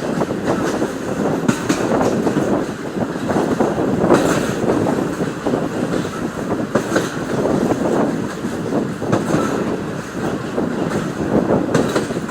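Moving train running along the track: a steady rumble with wheels clacking over rail joints every few seconds.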